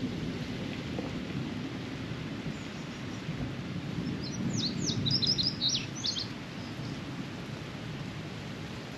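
A bird calls with a quick run of high chirping notes about four to six seconds in, over a steady low rumble.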